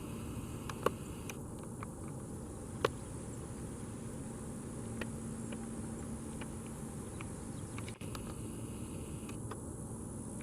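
Steady outdoor background noise with a thin, steady high-pitched whine, broken by two short sharp clicks about one and three seconds in.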